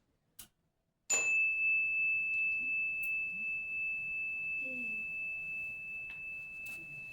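A small bell or chime struck once about a second in, ringing one clear high tone that fades slowly.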